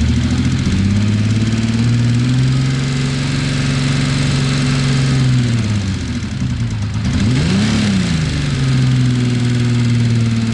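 Kawasaki Z1300's inline six-cylinder engine running steadily at a fast idle, with a light ticking over it that is the fault being troubleshot. About three-quarters of the way through the engine speed dips, then is blipped once up and back down before settling.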